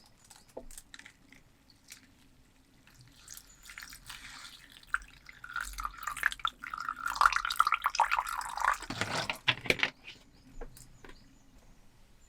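Water running into a container for about six seconds, loudest near the end before stopping, with small clicks and knocks around it.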